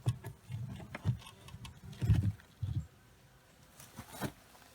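Irregular knocks and clicks of hands and tools working at an irrigation control box, the loudest thump about two seconds in.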